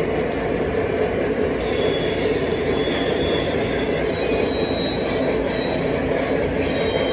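A train rolling steadily along the track, with a thin high wheel squeal that comes in about a second and a half in and fades out after about four seconds.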